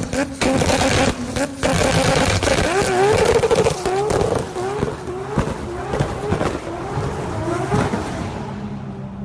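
Sports car engine revving hard, its pitch climbing and dropping back again and again in quick succession, then fading away near the end.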